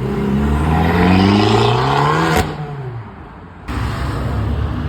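Car engine accelerating hard, its note rising for about two seconds, then a sharp crack and the note falling away as it fades. About a second later a steady engine rumble starts abruptly.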